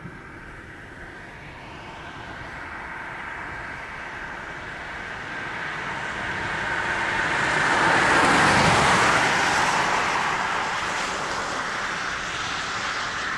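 A car driving past on the road, its tyre and engine noise swelling to a peak about eight seconds in, then slowly fading.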